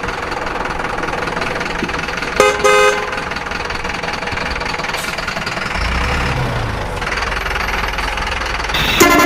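Vehicle horn honking twice in short blasts about two and a half seconds in, over a steady engine running; another horn blast starts near the end.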